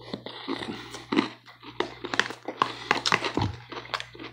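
Close-up chewing and lip-smacking of salad, with irregular clicks of a fork against a clear plastic container. A steady low hum runs underneath.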